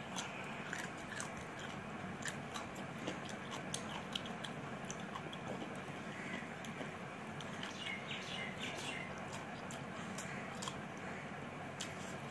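A person chewing a mouthful of rice and mutton, with frequent, irregular wet mouth clicks and smacks over a steady background hiss.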